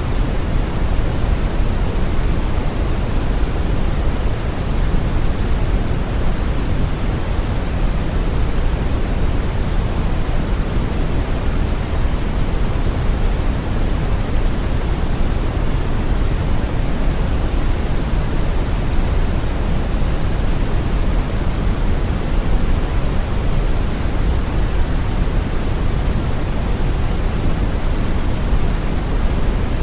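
Steady brown noise: an even, unchanging rumbling hiss, deepest in the bass and fading toward the treble.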